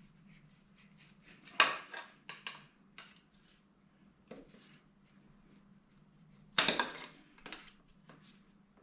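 Metal tools and engine parts clinking and clattering during an engine strip-down, with two louder clatters about a second and a half in and near seven seconds, among lighter clicks, over a steady low hum.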